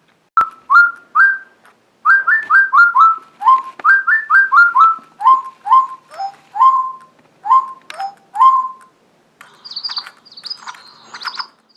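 A bird whistling a quick series of about twenty short notes, each sweeping up sharply and then held briefly, with the pitch stepping down partway through. Near the end it switches to thinner, higher chirps.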